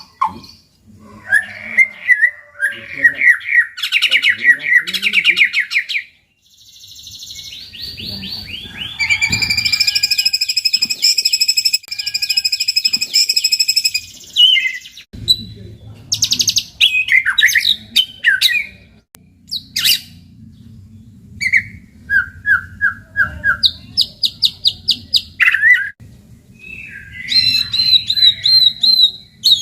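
White-rumped shama singing a varied song of whistled phrases and quick trills with short pauses, including a long, fast rattling trill of about six seconds roughly a third of the way in. A faint low hum sits underneath in the second half.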